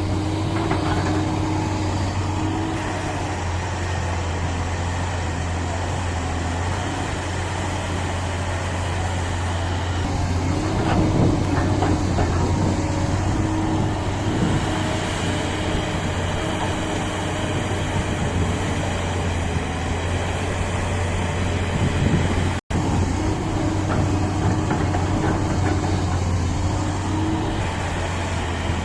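Heavy diesel engine of construction machinery running steadily, with some clatter in the middle and a momentary cut-out about three-quarters of the way through.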